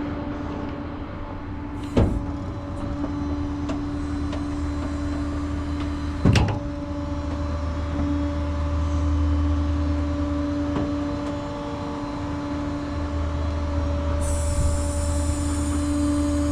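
Truck engine idling with a steady low rumble and hum. Two sharp knocks come about 2 and 6 seconds in, and a hiss joins near the end.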